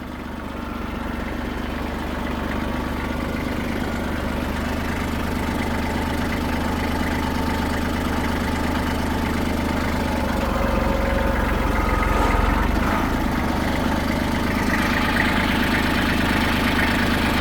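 An engine running steadily at low speed, growing gradually louder.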